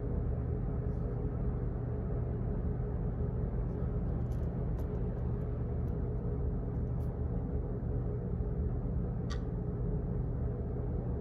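Office ambience: a steady low hum with a few faint, scattered clicks.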